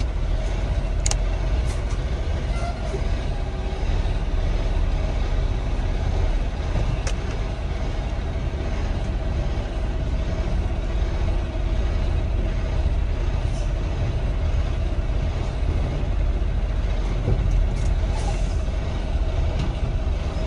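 Semi-truck diesel engine running steadily at low speed, heard from inside the cab while backing a trailer: a constant low rumble with a steady hum over it, and a couple of faint sharp clicks.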